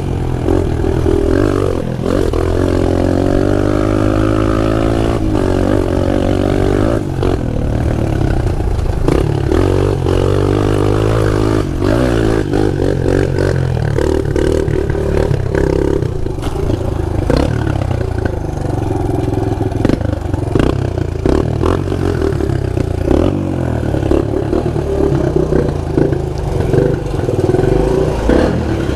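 Pit bike engine running and revving up and down repeatedly as it is ridden, with rattling and knocks mixed in.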